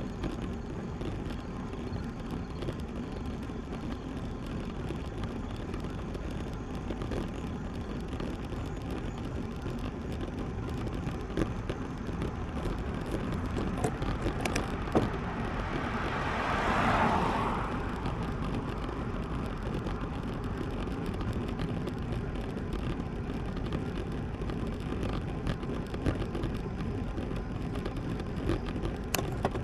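Steady wind and road noise on a moving road bike, with a car passing about halfway through, swelling up and fading away over about two seconds. A few sharp clicks.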